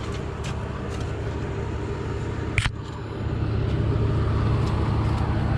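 Case 680B backhoe engine running steadily, picking up a little about three and a half seconds in as the boom is worked to check the pin for slop. A single sharp metallic click about halfway.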